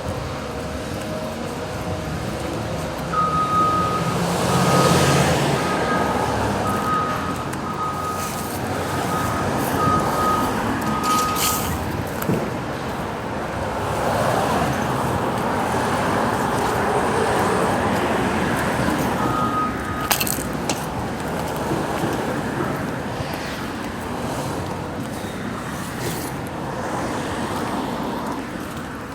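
Street traffic: vehicles passing, their noise swelling and fading several times. A steady series of high beeps, about one a second, sounds for about nine seconds early on and briefly again later.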